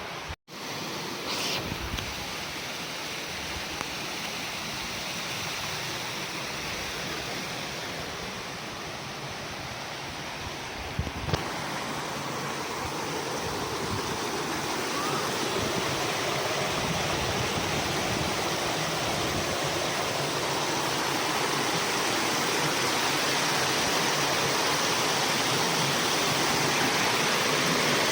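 Rushing water of a waterfall and mountain stream, a steady rush that grows gradually louder. It cuts out briefly just after the start, and a couple of faint knocks sound over it.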